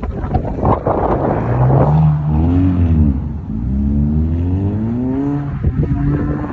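Subaru Impreza's flat-four engine being revved up and down hard while drifting on snow, its pitch swinging up around the middle and dropping back near the end. A rough, crackling noise sits over the engine in the first two seconds.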